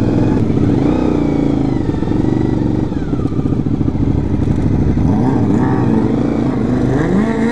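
Honda VFR400 motorcycle's V4 engine running through a straight-piped exhaust while riding, its revs rising and falling a few times with the throttle.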